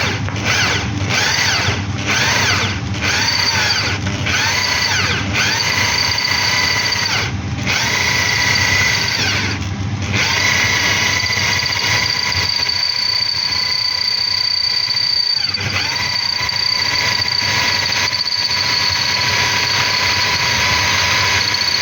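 Power drill running at low speed, its bit boring through a metal anode with a steady whine that wavers in pitch during the first half. The drilling stops briefly twice, around seven and ten seconds in, then runs on steadily.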